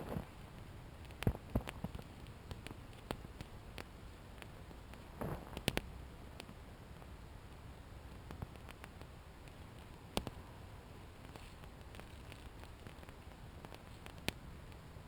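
Wet woollen sock being handled and wrung out, soft squishing and rustling with water dripping, over a small campfire giving a few sharp crackles and pops.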